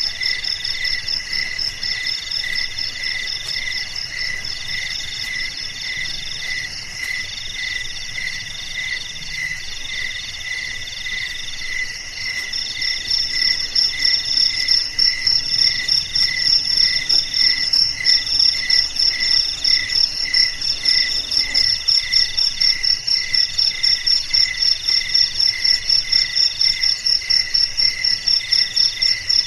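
A chorus of crickets chirping at several different pitches: a steady pulsing chirp, another in repeated phrases of about a second and a half, and a high, rapid trill that becomes much louder about halfway through.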